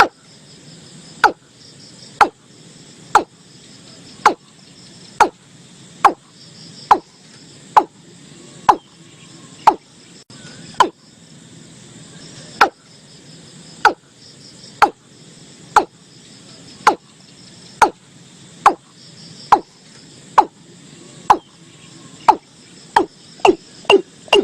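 Watercock calling: a series of short, hollow, downward-sweeping 'kok' notes about once a second, quickening near the end, over a steady background of crickets.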